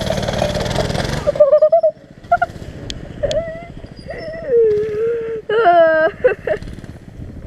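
Mini bike's small engine running for the first second or so, then it stops abruptly. After that come several high, wavering whine-like calls.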